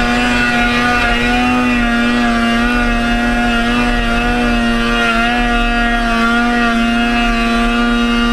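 Snowmobile engine running hard at a steady speed: a loud, constant engine drone whose pitch wavers only slightly.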